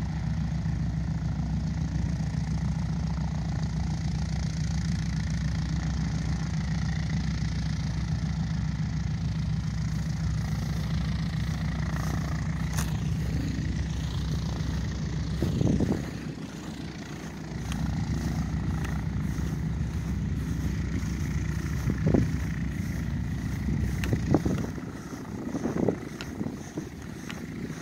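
A piston engine running steadily with a low hum, dropping away for a moment after about 16 seconds and again near the end, with a few sharp knocks.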